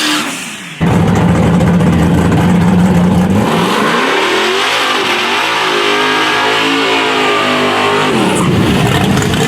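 Drag race car engine at full throttle, cutting in abruptly about a second in. Its pitch holds, dips, climbs again through the middle of the run and drops near the end.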